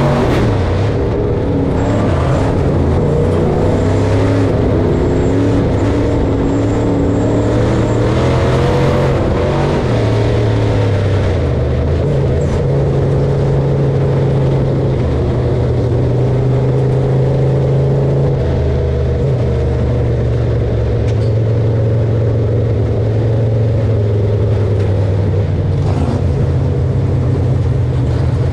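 Diesel engine of harvest machinery running steadily under load, its pitch shifting slightly a few times.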